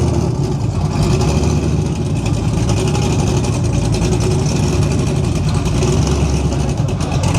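Loud, steady running of a car engine's exhaust, with a deep low note.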